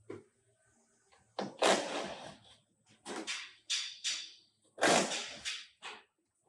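A few irregular knocks and clanks, each with a short ringing tail. The loudest come about one and a half seconds in and about five seconds in.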